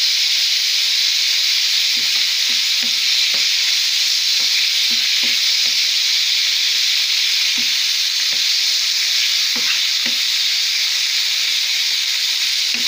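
Diced raw chicken sizzling steadily in hot vegetable oil in a frying pan, in its first minutes of frying. A wooden spatula stirs it, giving short, irregular scrapes and knocks against the pan.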